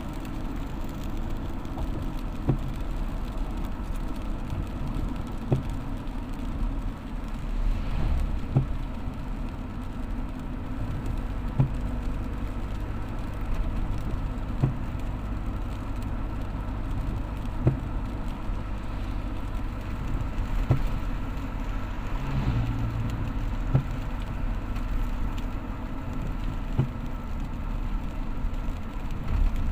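A vehicle engine running steadily while driving, with a low rumble and a short click about every three seconds.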